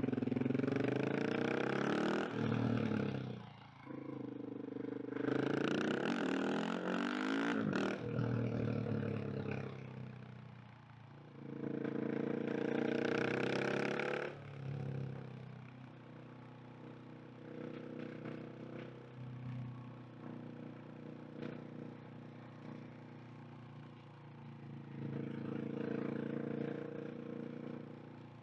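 KTM 690 SMC R single-cylinder engine accelerating hard three times with rising pitch, dropping back between pulls. From about halfway it runs quieter at lower revs.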